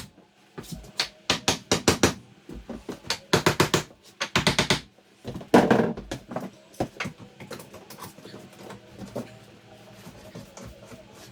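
Hammer tapping on wood in quick bursts of several strikes, with one louder knock about halfway through, then lighter scattered taps and clicks.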